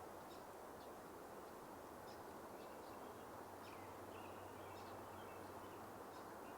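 Faint, scattered high chip notes from small songbirds, with a short twittering call about four seconds in, over a steady background rush.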